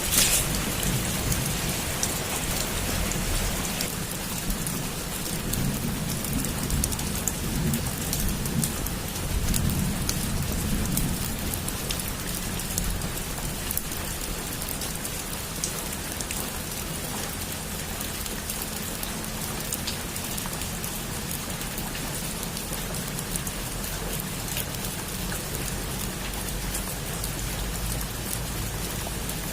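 Heavy rain on a roof: a steady hiss with scattered sharp drips. A low rumble of thunder swells in the first ten seconds or so, then dies away, leaving the rain alone.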